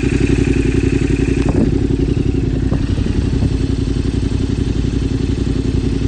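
Yamaha Ténéré 700 motorcycle's parallel-twin engine running at a steady pitch, with a couple of light knocks early on the way.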